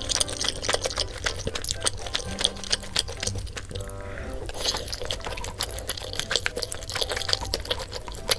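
Close-miked eating sounds from a bowl of malatang: wet slurping and chewing, with frequent small clicks of utensils against the bowl.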